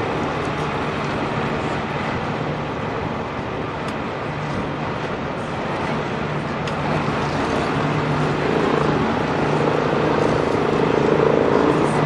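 Engine running steadily with a low hum under a wash of outdoor noise, growing louder in the last few seconds.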